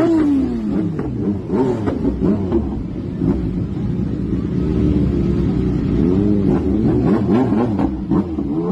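Motorcycle engine revving, its pitch dropping steeply at the start and then rising and falling again and again.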